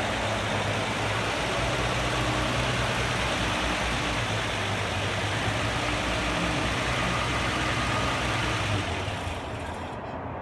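A 1953 Chevrolet 3100 pickup's 216 cubic inch overhead-valve inline six idling steadily; the sound drops away about nine seconds in.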